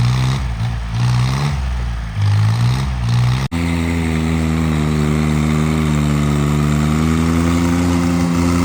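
A homemade tractor's engine running: its pitch rises and falls for the first few seconds, then, after an abrupt cut about three and a half seconds in, it runs at a steady speed.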